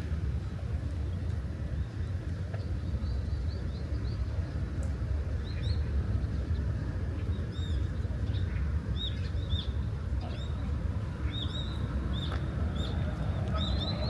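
Small birds chirping: quick, short high chirps repeated in runs, starting about five seconds in and growing busier toward the end, over a steady low rumble.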